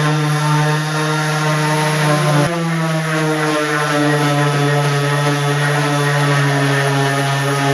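Electric power tool motor running steadily in woodworking, its pitch dipping briefly about two and a half seconds in and rising again near the end as the load on it changes.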